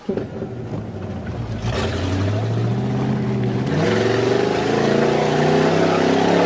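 Ford 289 V8 with open headers, heard from inside the cab: it comes in suddenly, then revs and pulls harder, rising in pitch and getting louder about two seconds in and again near four seconds.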